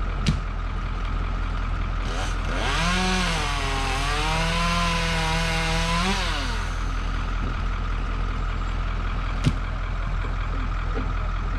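A chainsaw cutting a branch for about four seconds: it starts high, its pitch drops as it bites into the wood, and it rises again as it cuts through. A large diesel engine, likely a crane's, runs steadily underneath, and there are two sharp clicks.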